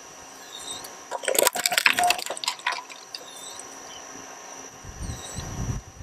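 Shredder blades crunching through a plastic toy truck: a run of sharp, loud cracks and snaps about a second in that lasts about two seconds, then a few duller low thumps near the end.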